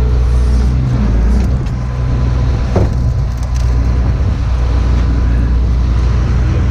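Heavy tow truck engine running steadily with a low drone, with a few light clicks and a single knock about three seconds in.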